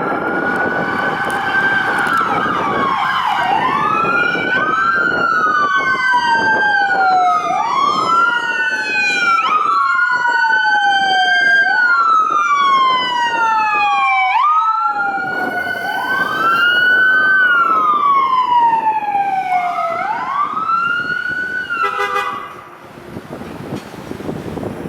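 Emergency vehicle electronic siren on wail, its pitch rising and falling about every three seconds over the drone of the vehicle. Early on a second siren overlaps it. The sirens cut off near the end.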